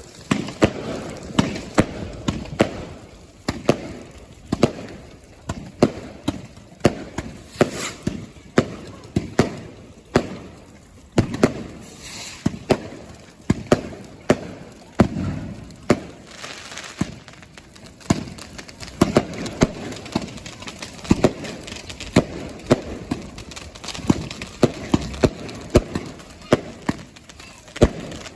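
Fireworks going off in quick, irregular succession: many sharp bangs, at times several a second, with people's voices underneath.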